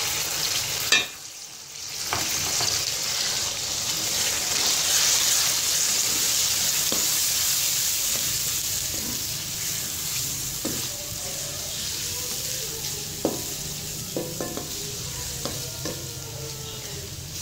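Onion-tomato masala with freshly added ground spices sizzling in hot oil in an aluminium kadhai while it is fried down (bhuna). A spatula stirs it, scraping and tapping against the pan now and then in the second half. The sizzle dips briefly about a second in.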